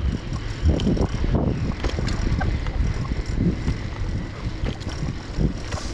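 Wind rumbling over the microphone of a bicycle rider's camera along with the bike's rolling noise, with a few light clicks and rattles.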